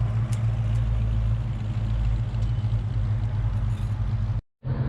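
Car engine idling steadily; the sound drops out for a moment near the end.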